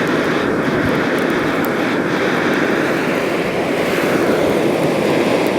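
Coke forge's blower fan running at maximum air, air rushing through the burning coke fire in a steady, even rushing noise.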